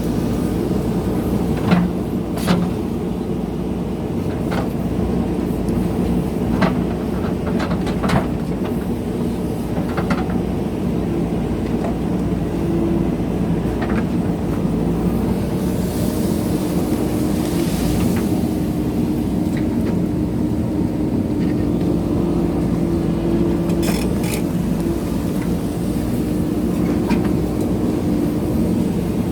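JCB backhoe loader's diesel engine running steadily under working load, with scattered sharp knocks and clanks from the digging now and then, the loudest about two seconds in.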